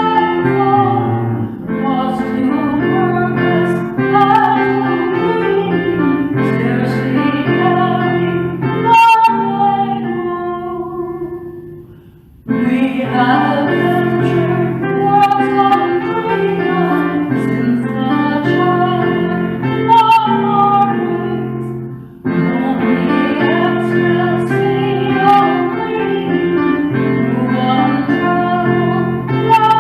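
A worship song sung by a woman over instrumental accompaniment. The music fades down around twelve seconds in and cuts back in abruptly, then drops out briefly again and returns about twenty-two seconds in.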